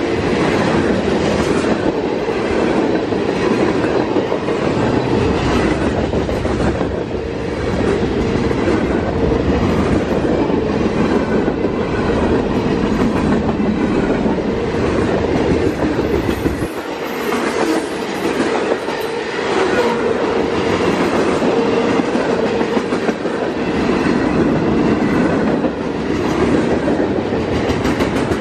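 Freight cars rolling past at close range: a steady loud rumble and rattle of steel wheels on the rails, with rhythmic clickety-clack as the wheels cross rail joints.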